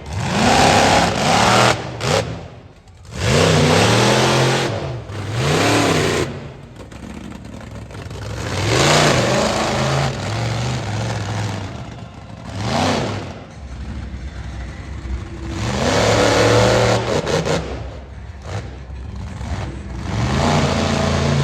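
Monster truck engine revving hard in about six surges, each climbing and falling in pitch, with the throttle easing between them.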